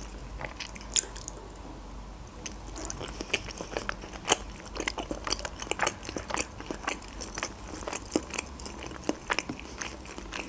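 A person chewing a mouthful of manti dumplings, with many short wet clicks and small crunches.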